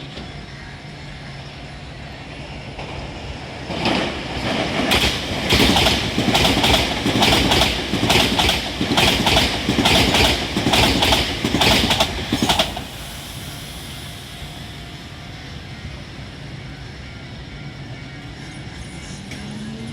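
An electric train rolls through the station, its wheels clattering rhythmically over the rail joints for about nine seconds before the noise drops back to a low rumble. Near the end a rising motor whine begins as a train starts to pull away.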